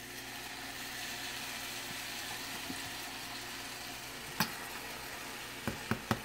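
Fried rice and vegetables sizzling steadily in a hot nonstick wok, just after soy sauce has been added. A sharp knock about two-thirds of the way through and three quick knocks near the end.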